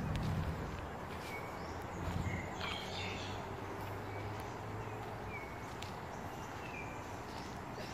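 Outdoor ambience: birds give short chirps every second or so over a steady hiss, with a few faint clicks. A low rumble fades out in the first couple of seconds.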